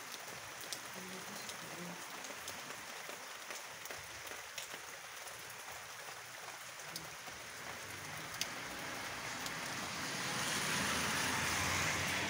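Rain falling: a steady hiss with scattered ticks of drops, swelling louder near the end.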